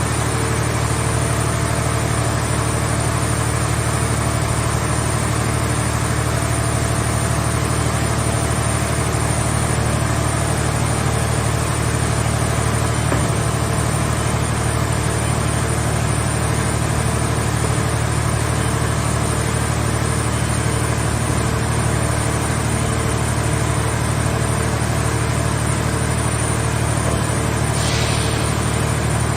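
Scrap car body baler's power unit running steadily with a constant low engine hum. A brief faint hiss comes near the end.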